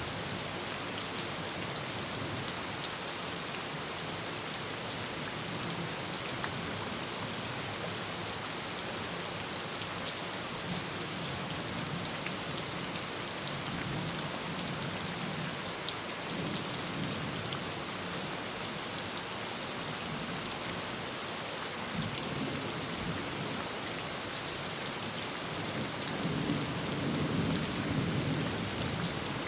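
Heavy rain falling steadily on a tin roof, with low rolls of thunder coming and going; the loudest roll is near the end.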